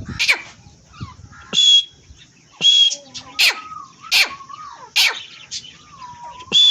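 A pair of francolins (teetar) calling: loud, harsh, shrill calls repeated about once a second, with fainter whistled notes between them.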